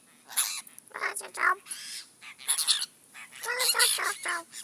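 A group of apostle birds giving repeated harsh, grating calls in short bursts, several calls a second at times.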